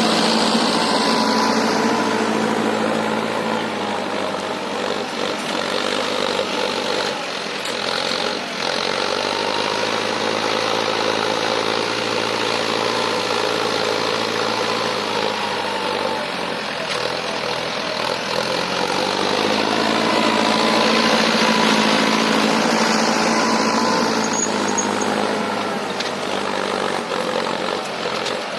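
Mahindra tractor's diesel engine running steadily while pulling a cultivator through dry ground. Its pitch sags for a few seconds about midway, then picks up again.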